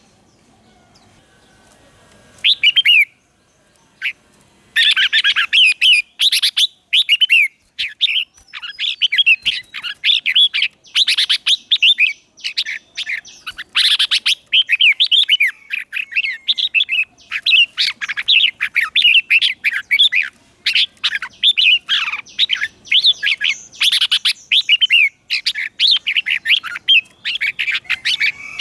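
Red-whiskered bulbuls singing, a decoy bird's song meant to call in wild bulbuls. After a nearly quiet start with one short phrase, rapid bright chirping phrases begin about five seconds in and run on with hardly a break.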